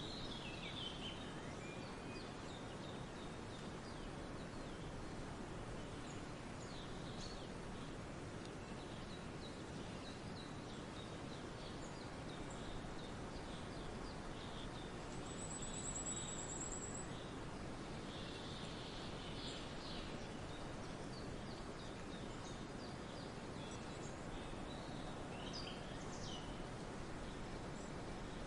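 Forest birds calling: scattered short chirps over a steady background hiss, with one high, fast trill a little past halfway through.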